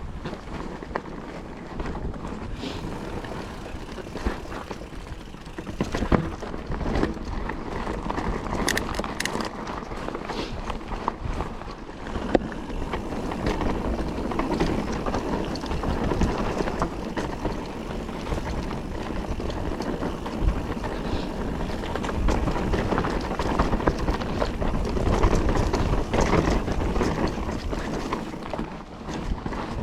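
Mountain bike riding along a loose, dry dirt trail. Tyres rolling over dirt, frequent clicks and rattles from the bike over bumps, and wind buffeting the microphone, all growing louder from about halfway through.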